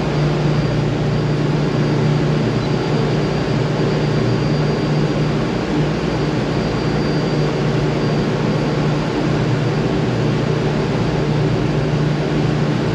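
Steady, loud drone of a ship's engine-room machinery, a deep hum with a faint high whine above it, heard from inside the main engine's scavenge space.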